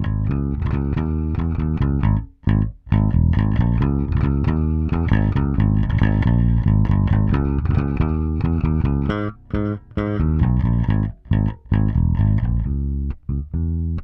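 Electric bass guitar playing a line of plucked notes on its own, run through an LA-2A-style tube opto compressor. The line stops briefly a few times: once around two seconds in and again twice in the second half.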